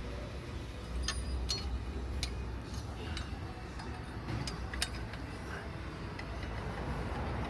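Scattered, irregular light metallic clicks and clinks of hand tools and bolts as bolts are started on a diesel engine's turbo bracket, over a steady low hum.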